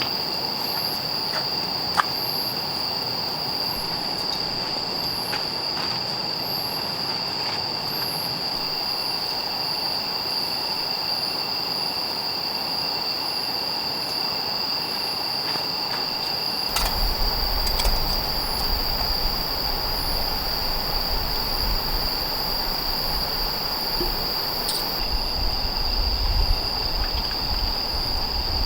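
Insects calling outdoors: a steady high-pitched trill with faster repeated chirps above it. About two-thirds of the way through a low rumble joins and continues to the end.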